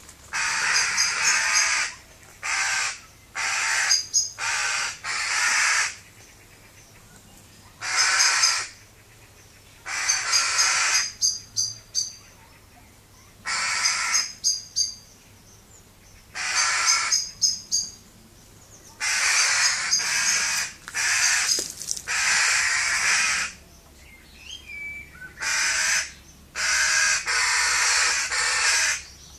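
Birds giving loud, harsh, raspy calls, each lasting about half a second to a second and a half, repeated over and over with short quiet gaps between bouts.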